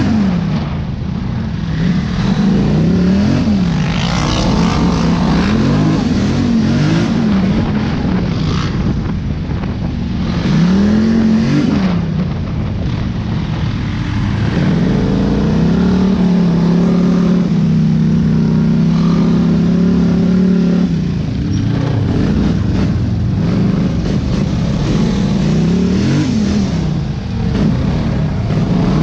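Dirt bike engine on the trail, revving up and falling back again and again as the throttle is worked, with a stretch of steady running for several seconds past the middle.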